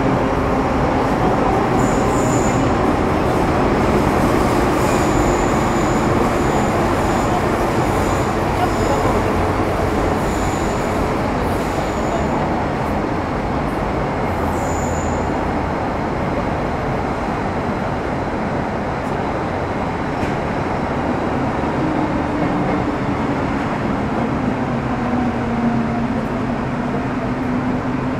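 Metro Cammell M-Train electric multiple unit running through the tunnel, with a loud steady rumble and roar of wheels on rail. Brief high squeaks come and go in the first half, and a low steady hum from the GEC GTO chopper traction equipment comes in for roughly the last quarter.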